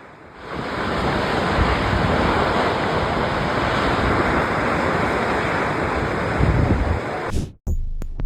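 Rock slide: a loud, steady rushing roar of falling rock with a deep rumble underneath, cutting off suddenly near the end.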